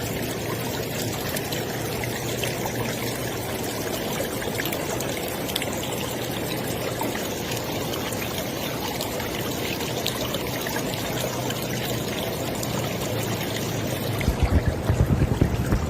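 River water flowing steadily, with trickling. About fourteen seconds in, uneven low thumps start up beneath the flow.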